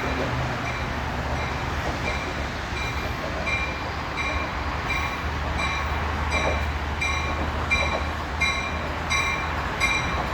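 New Jersey Transit train running through the station with a steady low rumble. From a few seconds in, a high ringing strike repeats about twice a second and grows louder toward the end.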